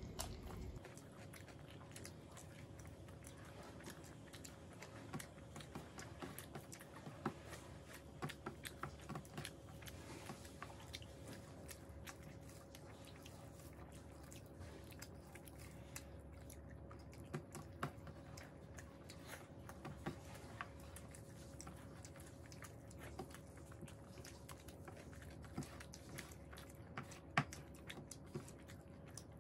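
Two people eating rice and curry with their hands: faint chewing and mouth sounds with scattered small clicks, a few a little louder, over a faint steady hum.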